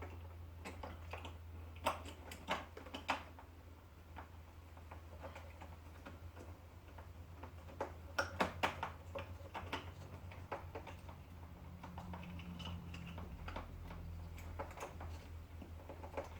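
Scattered light clicks and taps of small parts and hand tools being handled while a small generator's carburetor is put back together, over a steady low hum. A quick cluster of louder clicks comes about eight seconds in.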